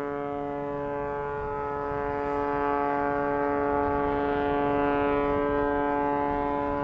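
Single-engine aerobatic plane's piston engine and propeller at high power, a steady droning tone that holds its pitch while the plane hangs on its propeller in a hover.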